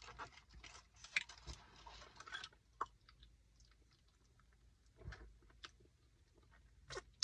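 A person chewing food close to the microphone: soft, irregular crunches and wet mouth clicks, busiest in the first couple of seconds, then only a few scattered clicks.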